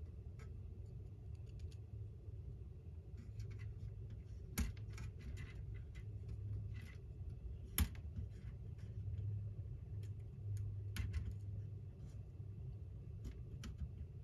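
Small plastic model-kit parts and wires being handled and pushed into place: scattered light clicks and taps, with two sharper clicks about a third of the way through and just past halfway, over a low steady hum.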